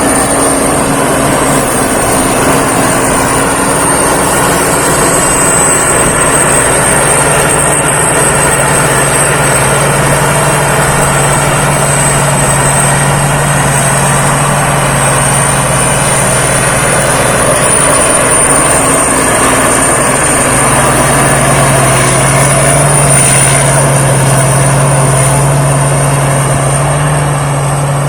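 Thai Seng Yont rice combine harvester running steadily, with a steady engine hum and a high thin whine above it; the hum rises a little about two-thirds of the way through.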